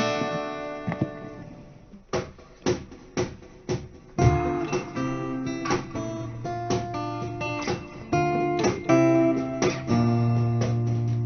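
Acoustic guitar. A chord rings and fades over the first two seconds, then four short muted strokes about half a second apart count in, and steady strummed chords begin about four seconds in as the song's intro.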